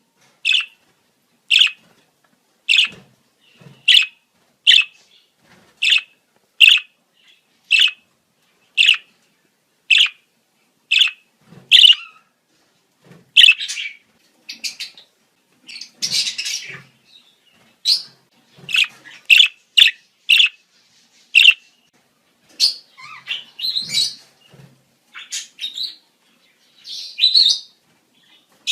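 Budgerigars calling in the breeding season: short sharp chirps about once a second, broken by bursts of busier chattering warble in the middle and near the end.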